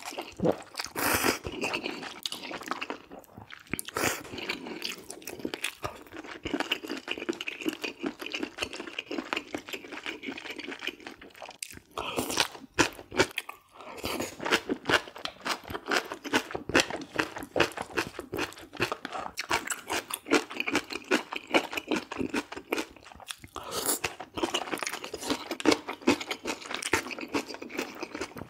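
Close-miked chewing and biting of a person eating, a dense, continuous run of crunchy clicks from the mouth, with a couple of short pauses.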